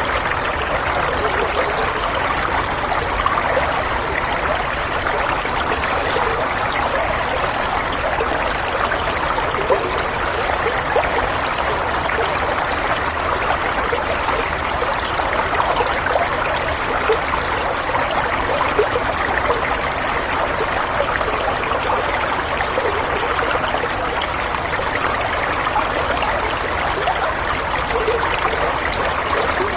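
Steady running water, like a small stream or brook flowing, with a constant splashing trickle and no change.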